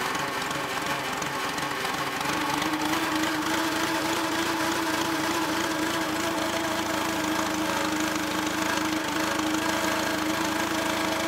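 Engine idling steadily; its drone steps up slightly in pitch about two seconds in and then holds even.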